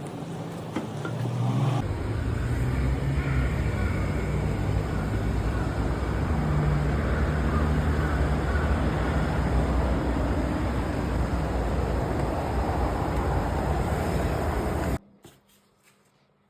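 A road vehicle running with a steady low rumble, picking up about two seconds in and cutting off abruptly near the end.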